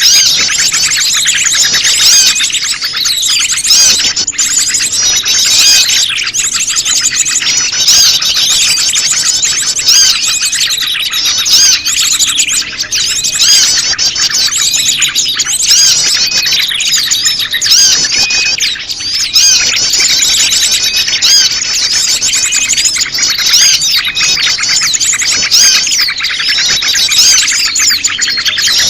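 Bird-lure recording of a prenjak lumut mixed with a chorus of many small songbirds: dense, overlapping chirps and trills that rise and fall in loudness about every two seconds.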